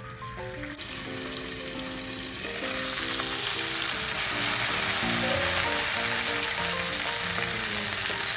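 Ground meat and green peppers sizzling in a frying pan, a steady hiss that starts about a second in and grows louder a couple of seconds later.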